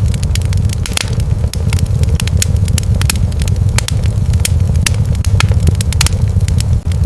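Wood fire crackling in a fireplace, with many sharp irregular pops several times a second over a steady low rumble.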